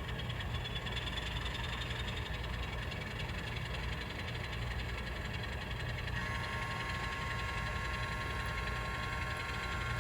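N scale model locomotive running on the layout: a steady low hum with a faint motor whine, joined by a higher steady whine about six seconds in.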